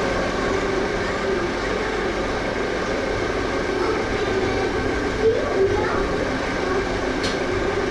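Metal lathe running steadily with an 18 mm four-flute end mill in its chuck, taking a very light 0.5 mm test cut at the lowest feed: a steady mechanical drone with a few held tones.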